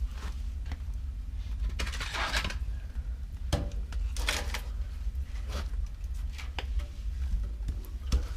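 Scattered knocks and a brief rustle from things being handled, over a steady low rumble.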